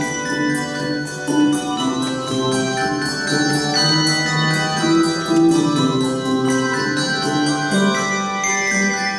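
Handbell choir playing a melody over chords: many bells struck in turn, each note ringing on and overlapping the next.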